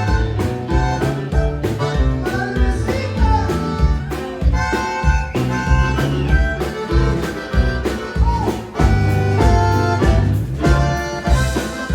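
Live Tejano band music with a steady bass-and-drum beat, an accordion carrying the melody in an instrumental passage.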